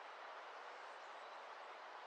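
Faint, steady outdoor ambience: an even hiss with no distinct calls or events.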